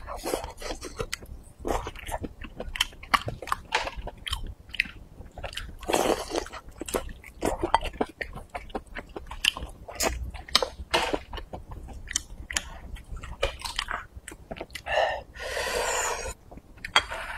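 Close-miked chewing and biting of spicy maocai with rice, a steady run of short mouth clicks and smacks. A longer, louder noisy sound comes near the end.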